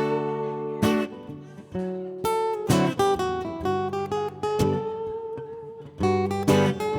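Acoustic guitar played solo, strummed chords and picked notes ringing out, as the instrumental intro of a song.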